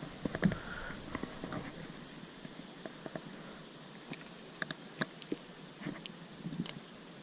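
Scattered small clicks, taps and rustles of handling in a kayak, as a just-caught rock bass is unhooked and held.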